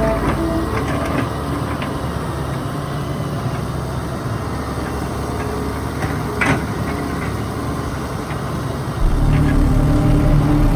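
Doosan DX140W wheeled excavator's diesel engine running, with one sharp knock about six and a half seconds in. About nine seconds in the engine gets louder, settling into a steady low drone.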